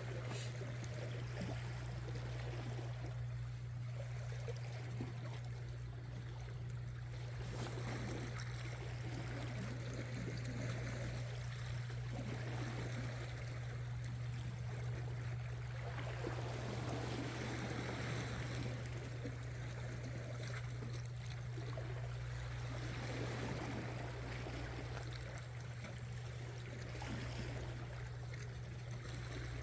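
Seawater washing and trickling among shoreline rocks in gentle, uneven swells, over a steady low hum.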